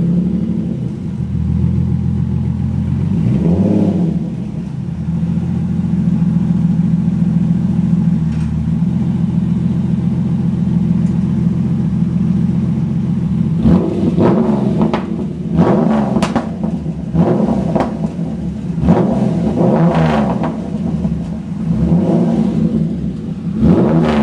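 TVR T350c's Speed Six straight-six engine idling, with one brief blip a few seconds in. From about halfway it is revved in a series of quick, sharp blips, each rising and falling straight back to idle.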